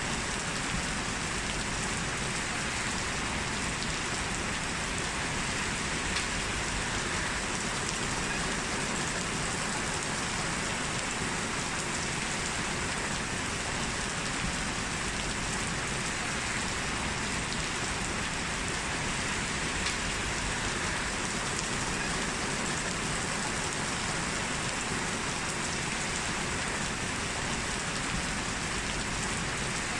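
Heavy rain falling steadily, an even hiss of drops with a few faint louder drop ticks.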